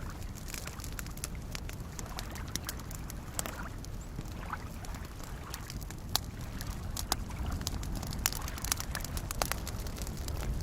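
Campfire crackling with scattered sharp pops, a few louder ones in the second half, over small lake waves lapping and sloshing.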